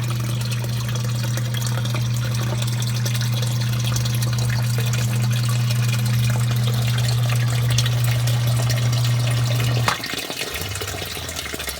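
Electric sump pump running with a steady hum and rushing water as it drains the pit. About ten seconds in it cuts off abruptly with a click, shut off by its new float switch as the water level drops.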